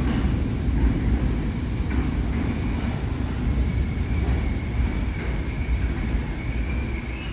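New York City subway train running: a steady low rumble with a faint high whine over it, easing slightly toward the end.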